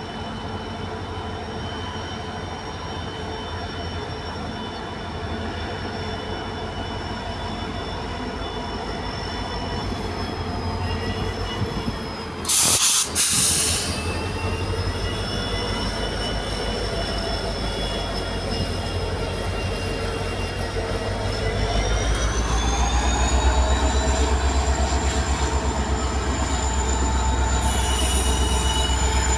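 Passenger train moving on the rails, its steel wheels squealing in several steady high tones over a low rumble. A loud burst of hiss lasts about a second and a half around 13 seconds in. From about 22 seconds the squeal rises in pitch and the rumble grows louder.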